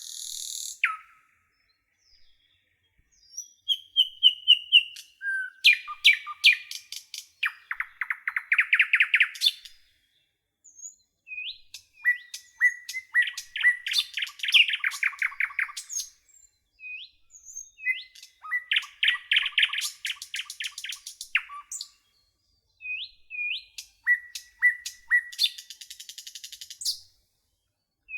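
Songbirds singing: bursts of chirps, quick sweeping notes and rapid trills of repeated notes, a few seconds each, separated by short silent pauses.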